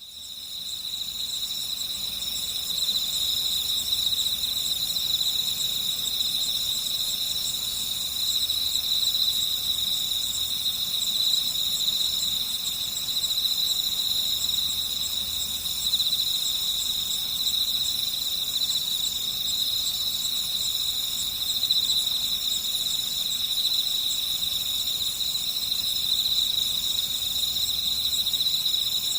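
A chorus of night insects trilling steadily at a high pitch, with a second, higher call pulsing on and off over it.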